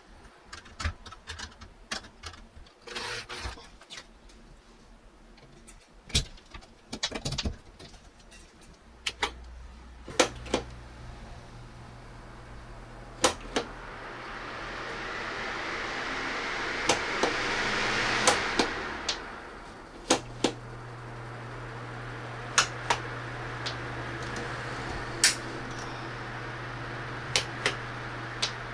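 Sharp clicks and knocks, then a wall-mounted electric fan starts about a third of the way in and runs with a steady hum and rush of air that swells, dips and settles. Sharp clicks keep coming over it.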